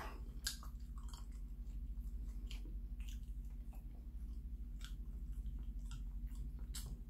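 A man chewing a mouthful of bread, with irregular wet mouth clicks, over a steady low hum.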